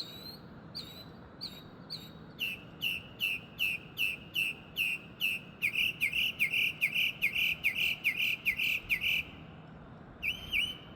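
A male songbird singing loudly, echoing off nearby buildings: a few short down-slurred whistles, then a long run of the same high note repeated about three times a second, and after a pause a new phrase near the end.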